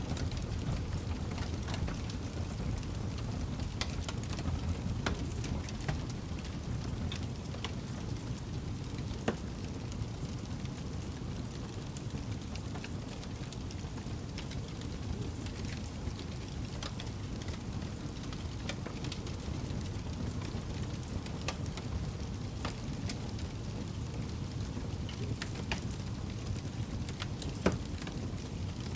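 Campfire burning: a steady low rumble of flames with scattered crackles of burning wood, and two sharper pops, one about nine seconds in and one near the end.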